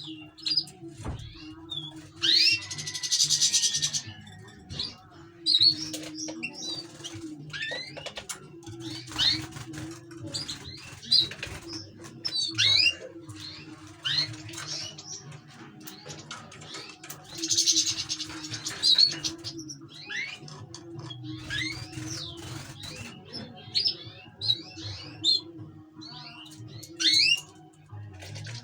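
Finches singing: a string of quick sweeping chirps, broken twice by bursts of fast, dense trilling song, over a steady low hum.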